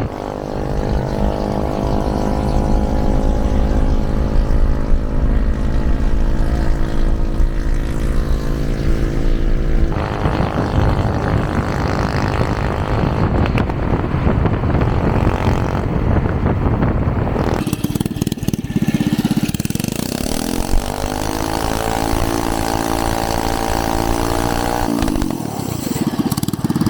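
Small single-cylinder mini-bike engine running hard during a ride. It holds a steady high pitch for about ten seconds, turns rougher and noisier for several seconds, then revs up again about two-thirds of the way through and drops off near the end as the throttle is let off.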